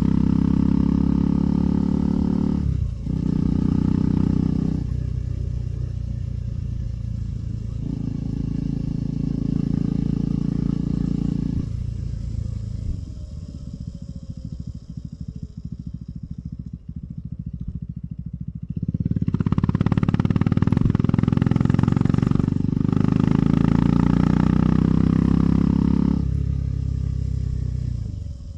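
KTM 390 Adventure's single-cylinder engine pulling on the move. The throttle opens and closes, with short breaks near the start and again later, and a long quieter stretch of coasting in the middle before it pulls hard again.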